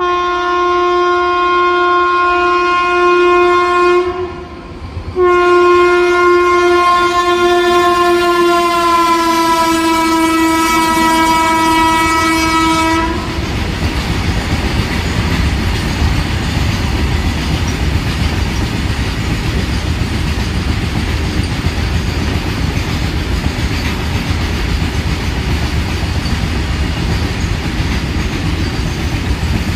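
Indian Railways locomotive horn sounding two long blasts, the second about twice as long and dropping in pitch as the locomotive passes, then cutting off suddenly. A long freight train's wagons then rumble and clatter steadily past on the rails.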